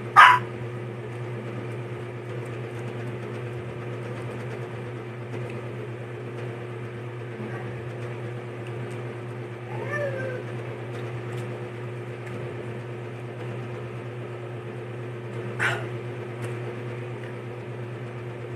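A domestic animal's short calls, one right at the start and one about three-quarters of the way through, with a faint call about halfway that rises and falls in pitch, over a steady low hum.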